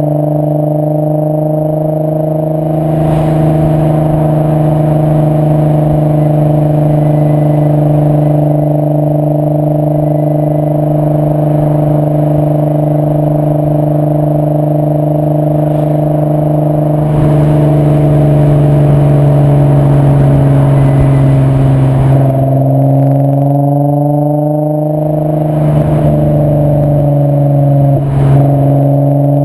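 VW 2.8-litre 24-valve VR6 engine running through a Milltek non-resonated exhaust, droning at a steady pitch while the car drives along. About three quarters of the way through, the revs fall and then climb again.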